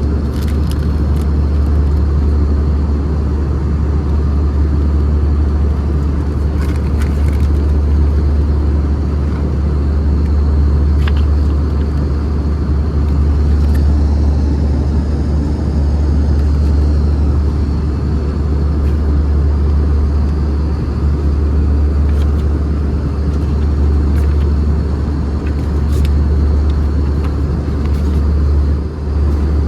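Cabin noise inside an Airbus A320 with CFM56 engines: a steady, loud low rumble from the engines and airframe, with a few faint clicks and a faint wavering whine in the middle.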